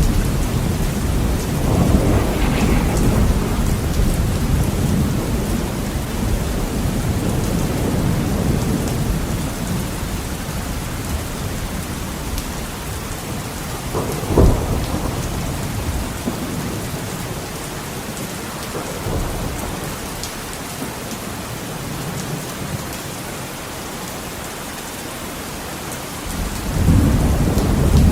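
Heavy rain pattering steadily on a window, with rolling thunder rumbling and fading away over the first half, a sharp thunder crack about halfway through, and a fresh low rumble building near the end.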